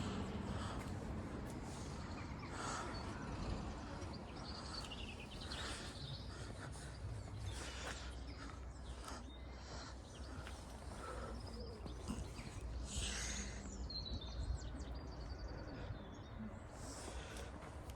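Wild birds singing: scattered short chirps and whistled phrases over a low, steady outdoor background rumble.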